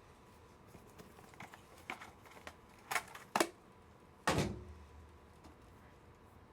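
Small clicks and taps of trading cards and hard plastic card holders being handled on a table, then one louder knock with a dull thud about four seconds in.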